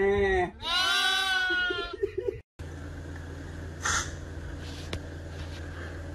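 Lambs bleating: two long, wavering, pitched calls in the first two seconds. After that a steady low hum, with a short hiss about four seconds in.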